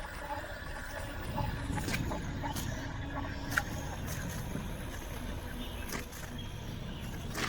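Riding noise from a moving electric bike: a steady low rumble of wind on the microphone and tyres on the road, with a few sharp clicks and rattles scattered through it.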